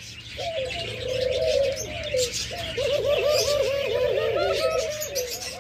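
Caged doves cooing in a low, rolling coo that breaks into quick rising-and-falling pulses from about halfway in. Small cage birds chirp continually over it.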